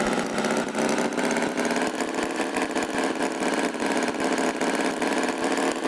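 Tractor engine running steadily with a fast, even putter.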